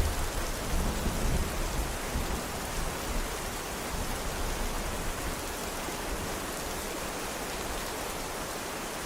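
Steady rain falling, with a low rumble of thunder that sets in suddenly at the start and fades away over about five seconds.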